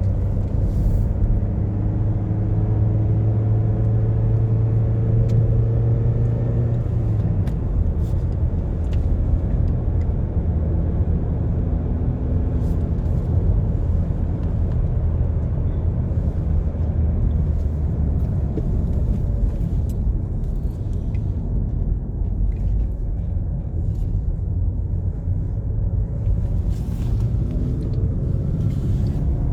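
A car driving on a country road: steady engine and tyre rumble. The engine note climbs for the first several seconds, then drops about seven seconds in, as at a gear change.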